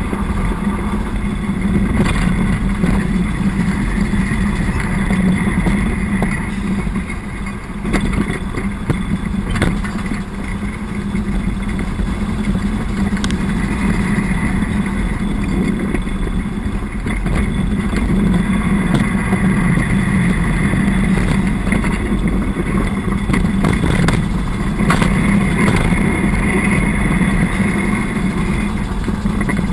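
The YaMZ-236 V6 diesel engine of a TU6A narrow-gauge locomotive runs steadily under load as the locomotive travels in second gear, with a few short sharp clacks.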